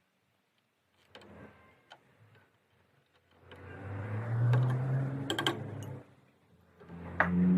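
A small motor running in two bursts of a few seconds each, its pitch holding steady, with a few sharp clicks during the first burst.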